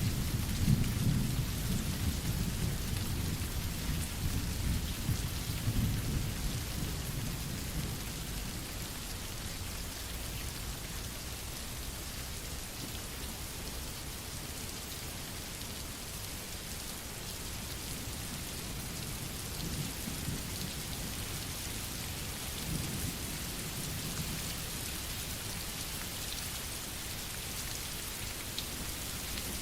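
Steady rain with low rolling thunder. The thunder is strongest in the first few seconds and dies away, and fainter rumbles come back about two-thirds of the way through.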